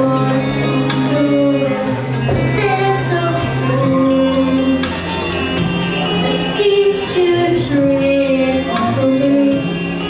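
Female voices singing a song over instrumental accompaniment, with sustained bass notes under the melody.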